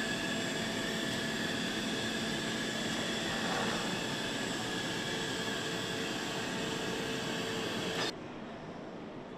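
Steady factory-floor machinery noise, a hum with several high whines over a constant whir; it drops suddenly about eight seconds in to a quieter hiss.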